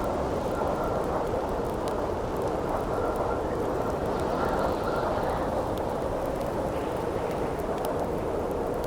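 Steady howling wind, a dense rushing with a faint on-and-off whistle, over the sparse crackles and pops of a burning campfire.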